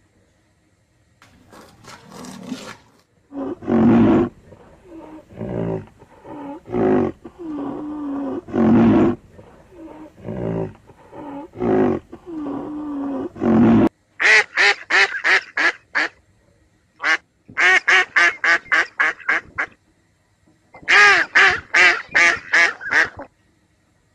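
A run of drawn-out, low-pitched animal calls, then three quick series of duck quacks at about four quacks a second.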